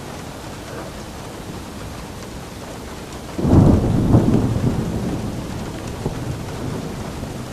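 Steady rain falling, with a clap of thunder about halfway through that breaks suddenly and rumbles away over a few seconds.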